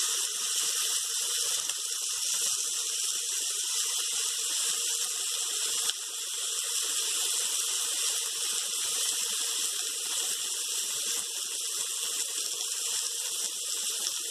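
Chopped vegetables frying in oil in an aluminium kadhai, a steady sizzling hiss.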